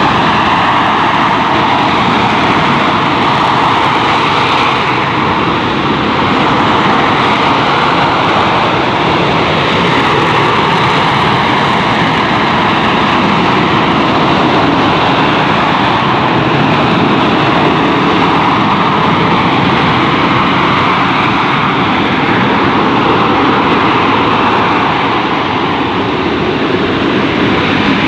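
AV-8B Harrier II's Rolls-Royce Pegasus turbofan running at high power as the jet hovers: loud, steady jet noise with no breaks, swelling and easing slowly.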